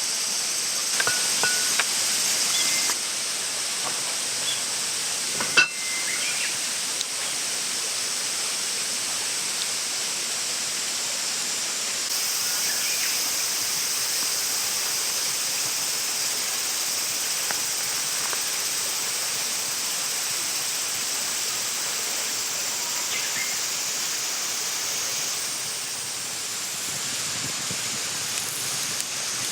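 Food sizzling in a pan over a campfire: a steady frying hiss, with a few light clicks and one sharp knock about five and a half seconds in.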